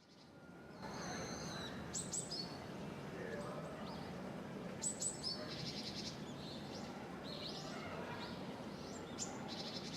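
Small birds chirping: short high calls and quick trills in a few clusters, over a steady low background hum.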